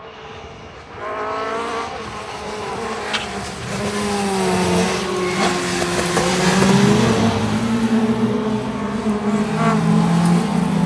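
Two-wheel-drive rallycross race cars racing. Their engines grow sharply louder about a second in and keep building as the cars come closer, with several engine notes rising and falling in pitch at once.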